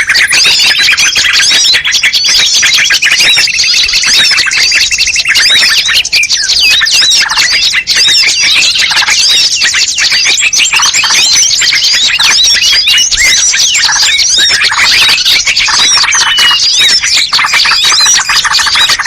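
Bird-lure recording of many small songbirds calling at once: a dense, unbroken chatter of rapid chirps and short whistles, with one trill held for the first few seconds.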